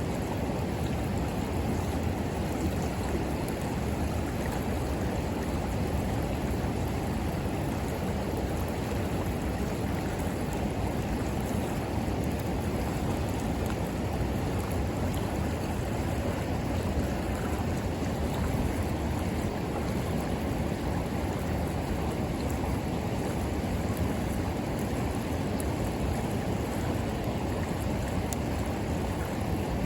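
River water flowing and rushing steadily, a constant low wash of water noise.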